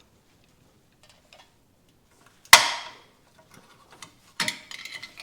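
One sharp metallic clank about two and a half seconds in, ringing briefly, followed near the end by a few lighter clicks and clinks of metal suspension parts being handled and fitted.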